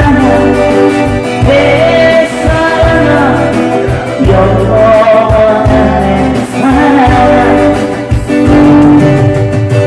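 Live band music: a slow Korean ballad with a gliding lead melody over guitar chords and a steady bass line.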